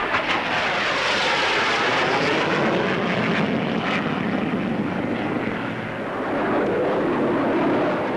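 Jet engine noise of the Fairey Delta 2 research aircraft flying past, a loud rushing roar with a sweeping, phasing shift in pitch as it passes.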